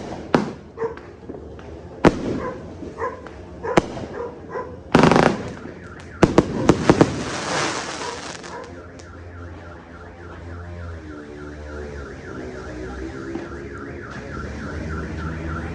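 Fireworks going off as scattered sharp bangs, with a cluster of loud blasts about five to seven seconds in. After that a car alarm sounds, with a fast repeating warbling tone.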